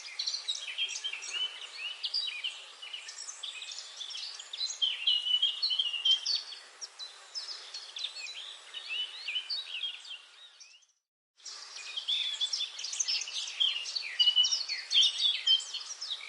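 Dawn-chorus-like forest birdsong: many birds singing and chirping at once in a dense, overlapping mix of quick high chirps and trills. The sound drops out completely for about half a second about two-thirds of the way through, then resumes.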